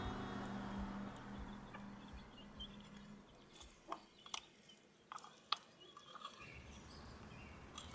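A quiet stretch: a held music note fades out over the first few seconds, then several faint, sharp clicks and taps come at scattered moments.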